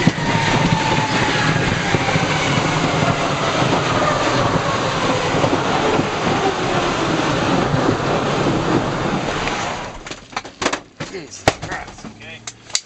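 Loud aircraft engine roar with a whine slowly falling in pitch. It cuts off about ten seconds in, leaving a few scattered knocks.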